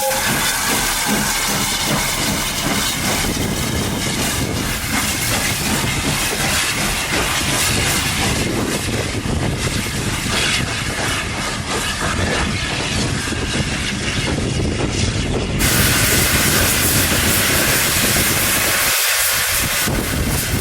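Steam locomotive hissing steam as it runs, a steady noisy sound; the sound changes abruptly about three-quarters of the way through.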